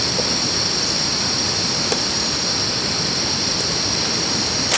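Steady jungle ambience: a constant high-pitched insect drone over a broad hiss, with a higher insect trill that starts and stops in spells of about a second.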